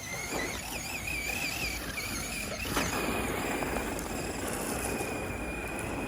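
Electric motor whine of a Tamiya Monster Beetle RC monster truck, running on a Super Stock motor and 2S LiPo. The whine wavers up and down with the throttle, over the crunch of tyres on gravel. A sharp knock comes a little under three seconds in, after which the whine holds steady.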